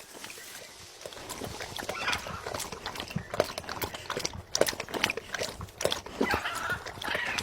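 Ringneck parrot tapping and clicking irregularly, with a couple of brief scratchy calls.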